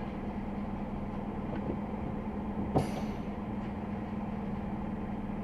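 Scania XT G500 8x8 truck's diesel engine running steadily with a low hum, with a short hiss about three seconds in.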